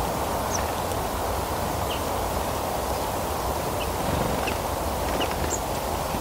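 Steady outdoor background noise with a low rumble, and a handful of short, high bird chirps scattered through it.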